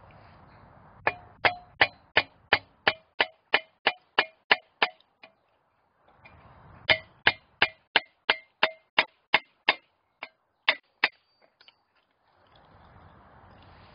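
A hammer striking steel in two runs of regular, ringing blows about three a second, the second run thinning out into a few last taps.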